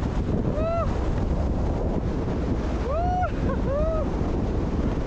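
Strong wind buffeting the microphone in a steady, heavy rush. A few short high tones that rise and fall cut through it, one near the start and a cluster around three seconds in.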